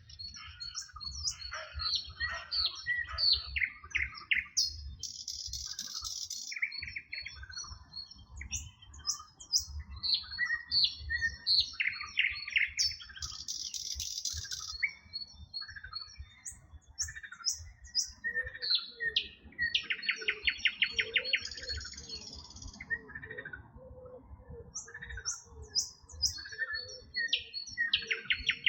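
Several songbirds singing and chirping at once, in overlapping short whistles, chirps and fast rattling trills. Frogs croak in a low, repeated series of short notes through the second half.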